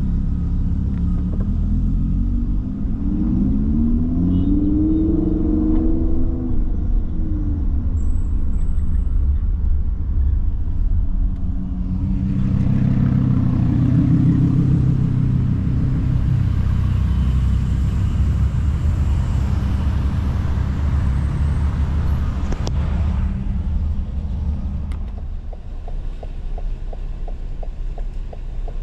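Car engines rumbling. About four seconds in, an engine's pitch rises and falls. From about twelve to twenty-three seconds a louder rushing vehicle noise swells and fades as a car goes by.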